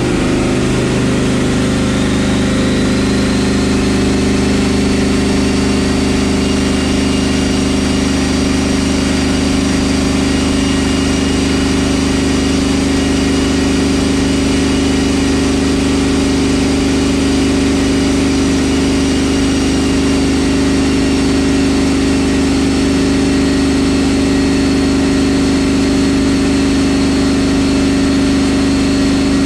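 Twin-turbo LS V8 engine running steadily at one held speed, a constant drone with a faint high whine over it that climbs slightly in the first few seconds and then holds.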